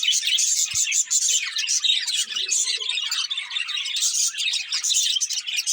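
Several budgerigars chirping and chattering continuously, rapid overlapping high chirps with no pauses. A brief soft thump just under a second in.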